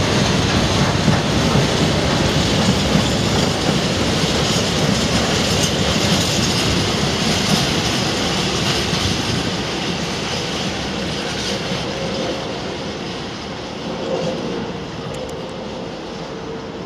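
Freight train of covered steel-coil wagons rolling past, wheels running over the rails in a steady rumble. It fades away over the last several seconds as the end of the train passes and draws off.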